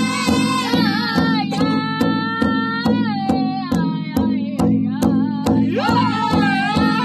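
Powwow drum song: a group of high-pitched voices singing held, sliding notes over a steady drumbeat of about two to three strokes a second.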